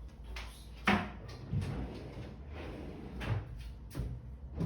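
A handful of short, sharp knocks and clicks, the loudest about a second in.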